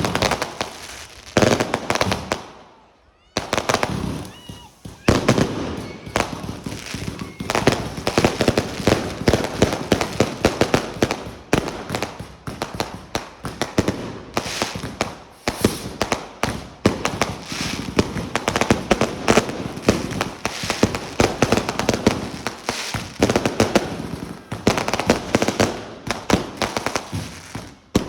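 Fireworks going off in rapid, dense volleys of bangs and crackling pops, with a brief lull about three seconds in.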